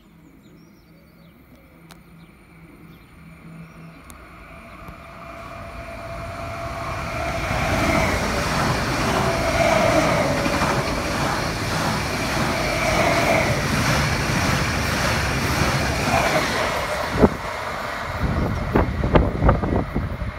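HLB electric regional train approaching and running close past the platform: a rumble of wheels on rail that builds over several seconds, with a steady whine over it, and a few sharp clicks near the end.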